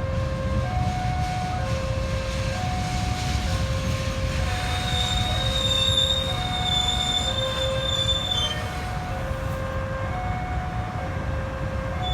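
A train running past with a steady low rumble. Its wheels squeal high and steady for about four seconds in the middle. Throughout, an electronic warning alarm alternates between a lower and a higher tone, each held about half a second.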